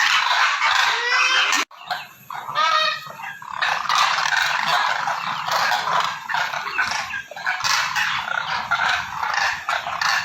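A flock of cranes giving many overlapping honking, trumpeting calls. The sound breaks off abruptly for a moment a little under two seconds in, then the calling resumes just as dense.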